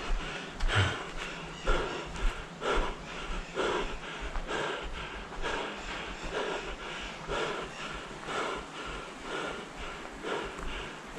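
A person breathing hard in a steady rhythm, about one heavy breath a second, winded from the exertion of running or climbing a trail.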